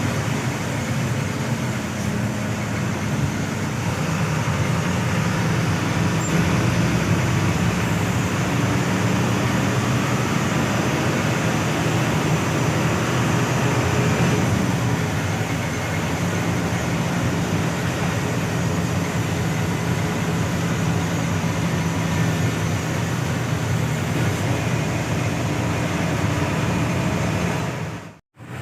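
Hino AK8 bus with its diesel engine mounted at the front, running steadily on the road: a constant engine hum under road and tyre noise, its pitch shifting slightly now and then. The sound cuts out briefly near the end.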